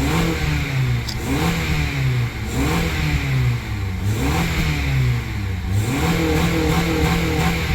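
A 2004 Honda Accord's engine, running smoothly on freshly fitted ignition coils, is revved up and let back down to idle over and over in quick succession. The engine is being run up to clear out oil that is burning off.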